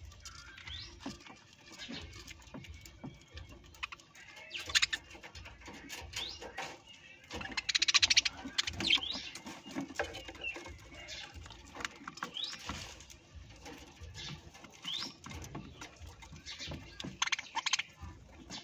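Parrots chirping in short rising calls, with one louder, harsh squawk about eight seconds in, among light scratching and tapping.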